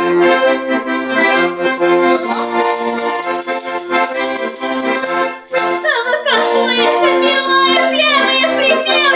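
Accordion playing a sustained, chordal introduction to a song, with a singing voice coming in about six seconds in.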